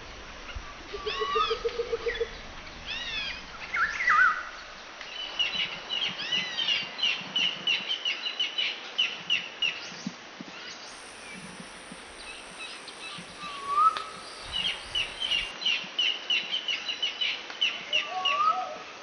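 Several wild birds calling over a steady outdoor background: repeated arched whistled notes, and two long runs of quick chattering trills, the first starting about five seconds in and the second near the end.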